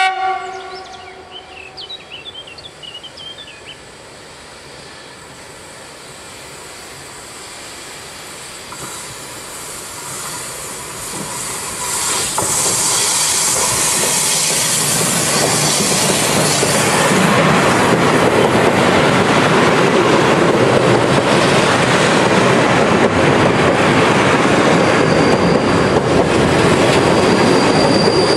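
A CFR Class 40 electric locomotive gives a short horn blast, then approaches and passes close by hauling a container freight train. The rumble builds for about twelve seconds, turns loud as the locomotive goes past, and stays loud as the container wagons roll by. A high, steady wheel squeal starts near the end.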